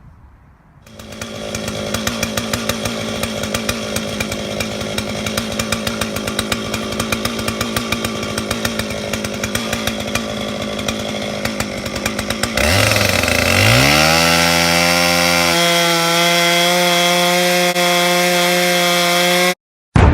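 Stihl 044 chainsaw with a 36-inch bar comes in about a second in and runs at a low, rhythmic idle. About two-thirds of the way through, it revs up to a high, steady full-throttle whine, then cuts off abruptly near the end.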